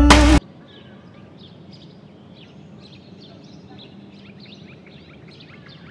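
A song cuts off abruptly less than half a second in, leaving faint outdoor ambience: birds chirping in many short, irregular calls over a low steady hum.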